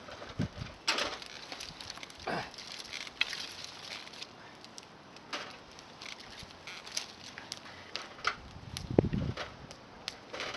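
Scattered small crackles and clicks from a twig campfire, mixed with close mouth sounds of eating stewed offal, chewing and slurping, with a cluster of soft low thumps about nine seconds in.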